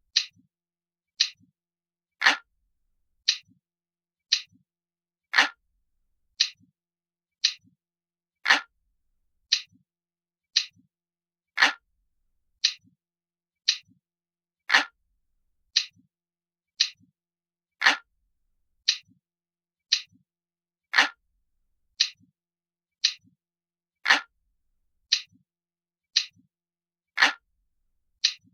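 Analog clock ticking steadily at about one tick a second, with every third tick fuller and louder than the two between.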